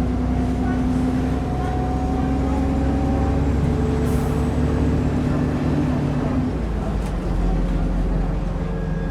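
Alexander Dennis Enviro400 double-decker bus's diesel engine and driveline under way, heard from inside the bus: its drone climbs slowly in pitch as the bus pulls along, then drops and changes note about six and a half seconds in.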